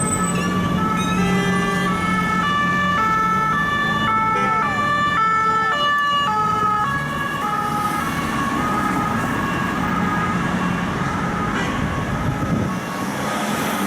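French police two-tone sirens, more than one at once, each switching back and forth between a high and a low note, over steady traffic and engine noise. The sirens are strongest in the first half and fade after about seven seconds.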